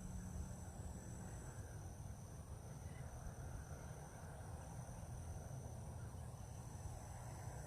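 Insects trilling steadily at a high pitch, in two overlapping tones: the higher one stops a second or two in, and the lower one comes and goes. Under them runs a steady low rumble.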